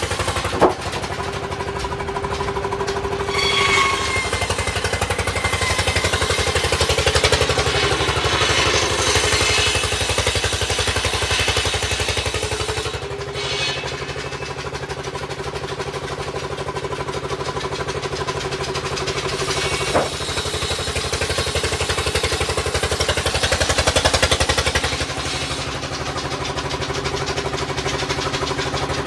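A motor vehicle engine running steadily with a fast, even firing pulse and outdoor traffic noise around it. A sharp knock comes about half a second in and another about twenty seconds in.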